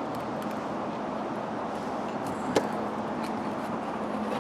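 Steady outdoor background noise with a single sharp metallic clink about two and a half seconds in: scrap iron knocking against the magnet-fishing magnet as the finds are handled.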